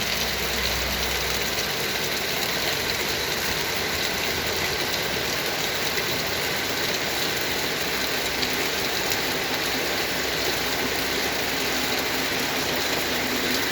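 Heavy rain pouring down in a steady downpour. A low rumble underneath fades out about two seconds in.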